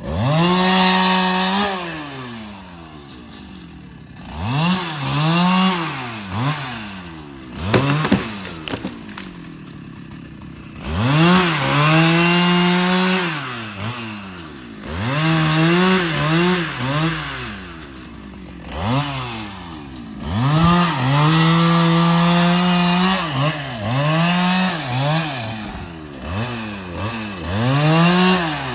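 Husqvarna 395XP two-stroke chainsaw revving again and again between idle and full throttle, in quick blips and longer held pulls of a second or more, while cutting wood.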